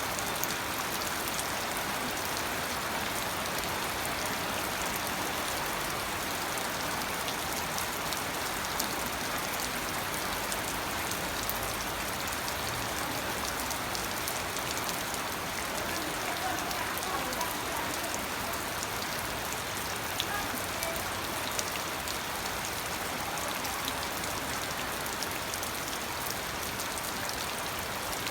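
Steady rain falling, with fine individual drop patters on a surface.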